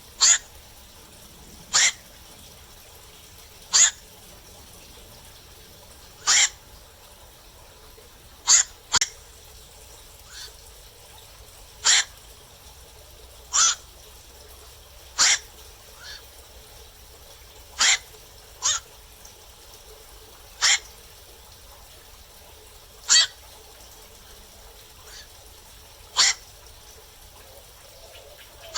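Black-crowned night heron giving short, sharp single calls about every two seconds, now and then two in quick succession, with a few fainter calls between.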